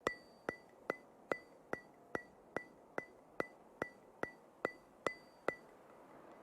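A steady run of sharp ticks, about two and a half a second, each with a short high ring; they stop shortly before the end.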